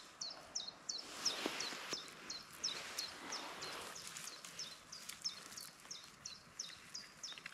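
A songbird calling over and over: a steady series of short, high, downward-slurred notes, about three a second. A few soft snaps and rustles sound underneath.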